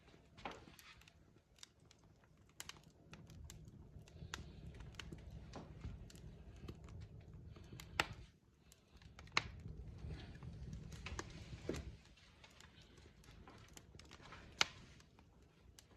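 Logs burning in a fireplace, crackling with irregular sharp pops and snaps over a low rumble of flames. A few louder pops stand out, about eight, nine and a half and fourteen and a half seconds in.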